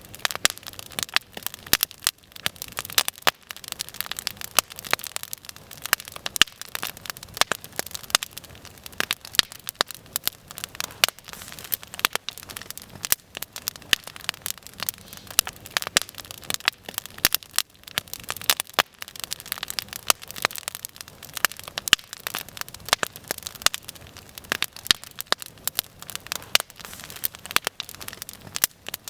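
Open wood fire crackling, with frequent irregular sharp pops.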